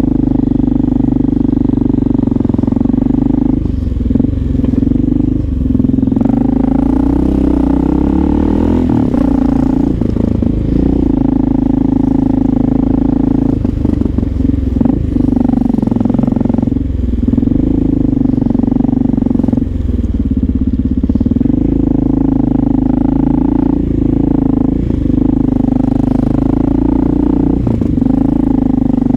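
Honda XR650L's single-cylinder four-stroke engine running while the bike is ridden. The pitch stays fairly steady, with brief dips and changes every few seconds.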